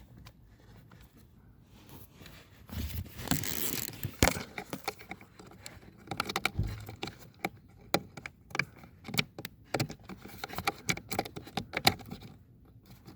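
Hand work on the plastic parts of the car's HVAC unit, with a rustling scrape about three seconds in and then a run of quick clicks, taps and small rattles, as when a flap motor and its electrical connector are fitted.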